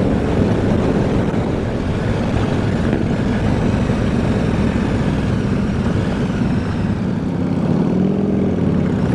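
Motorcycle on the move: wind rush over the rider's helmet microphone with the CFMoto 450MT's parallel-twin engine running underneath. About eight seconds in, the engine note rises and falls briefly.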